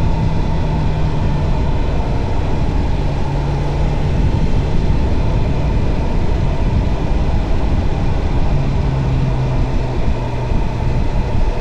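BMW S1000R inline-four motorcycle cruising at a steady pace, its engine hum drifting in and out under heavy wind rush on the microphone.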